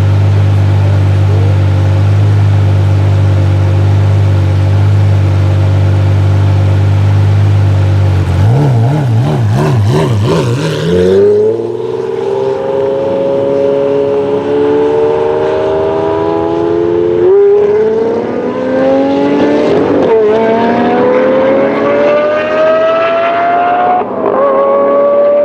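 Lamborghini Murcielago LP640's V12 engine through an iPE exhaust, running steadily at a low note for about eight seconds. The pitch then wavers and the engine accelerates hard, its note climbing steadily with brief dips at each gear change.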